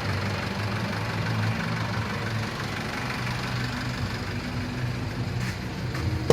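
Nissan Mistral's TD27T 2.7-litre four-cylinder turbodiesel idling steadily.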